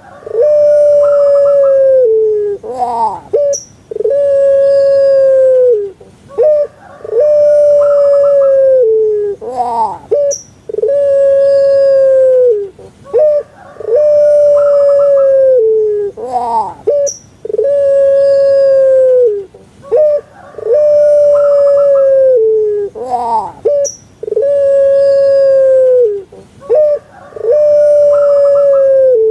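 Puter pelung dove (Streptopelia risoria) cooing over and over. Each call is a long, steady, low note that drops at its end, with a few short notes and a quick rising note between calls. The call repeats about every three seconds, nine times over.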